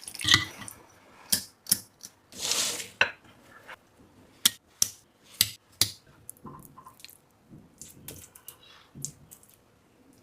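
Close-up wet eating sounds: a string of sharp mouth clicks and smacks, with a longer hissing slurp about two and a half seconds in.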